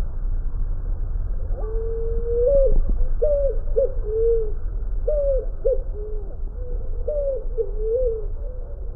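A bird calling: a series of short, low whistled notes, some rising and some falling, starting about a second and a half in, over a steady low rumble.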